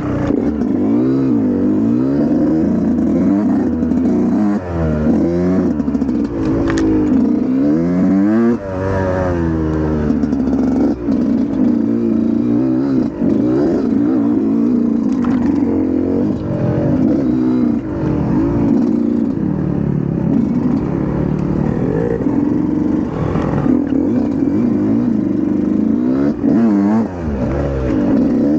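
Dirt bike engine being ridden hard, revving up and falling back again and again as the throttle is worked, its pitch rising and falling every second or two.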